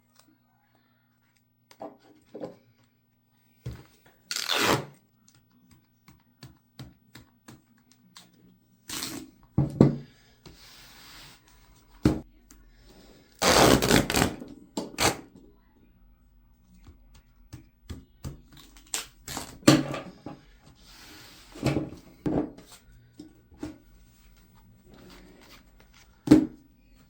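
Duct tape being pulled off the roll and torn in several rasping bursts, among irregular handling clicks and knocks.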